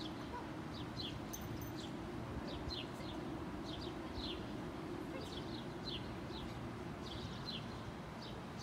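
A bird chirping over and over, short falling notes about once or twice a second, over a steady low rumble of outdoor background noise.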